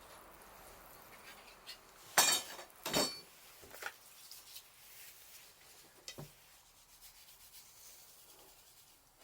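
Dishes and utensils clattering while being washed up: two loud clattering knocks about two and three seconds in, then a few lighter clinks.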